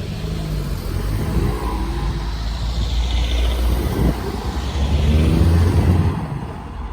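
A motor vehicle passing close by, its engine note rising and falling and loudest about five seconds in, then fading.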